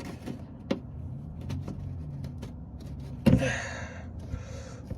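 Small clicks and taps of hand tools working on the car, then one loud metallic clank about three seconds in that rings briefly, over a low steady hum.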